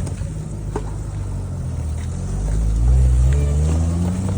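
A motor vehicle engine running and then revving up, its pitch rising steadily over the last two seconds as it accelerates away.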